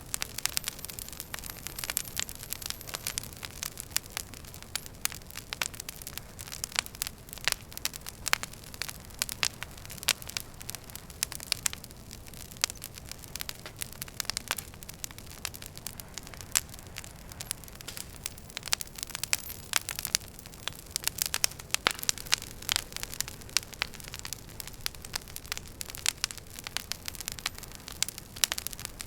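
Wood fire burning in a fireplace: logs crackling and popping in dense, irregular snaps over a low steady hiss.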